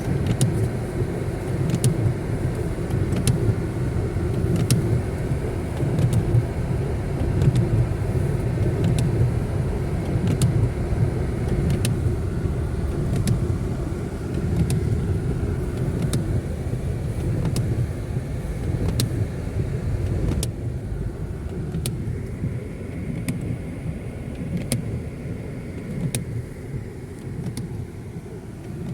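Steady low rumble with scattered faint ticks, easing slightly near the end.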